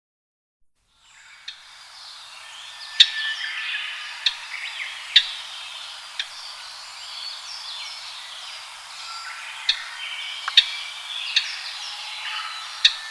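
Japanese grosbeaks calling: a busy mix of chirps and short whistles, with sharp, loud ticks scattered through. It starts abruptly about a second in.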